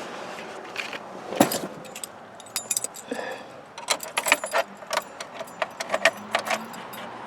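A thump about a second and a half in, then a bunch of car keys jingling and clicking repeatedly as the ignition key is handled before starting the car.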